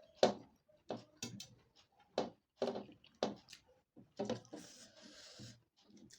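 Close-miked eating sounds: a string of sharp mouth clicks and smacks as a mouthful is chewed, with a short breathy hiss about four and a half seconds in.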